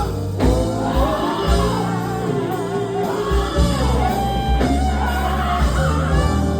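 Gospel band playing, with electric guitar and bass under a sung or moaned melodic line.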